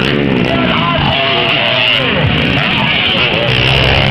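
Motocross bike engines revving and falling in pitch, mixed with loud music playing.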